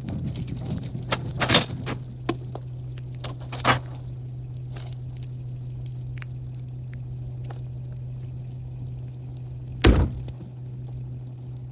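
Garbage truck running with a steady low hum, while trash is loaded into it with scattered knocks and thumps. The loudest thump comes near the end.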